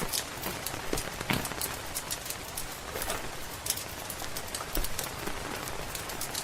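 Steady rain hissing and pattering, with many short, sharp crackles and pops from a wood fire scattered throughout.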